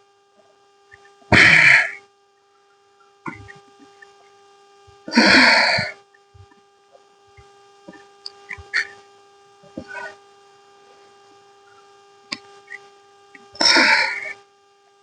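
A man's hard, forceful exhalations while exercising: three loud bursts, several seconds apart. A faint steady electrical hum runs underneath, with a few light clicks.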